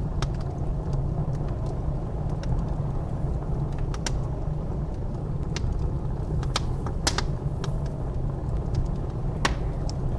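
Wood fire crackling in a fireplace, with scattered sharp pops, over a steady low rumble of blizzard wind.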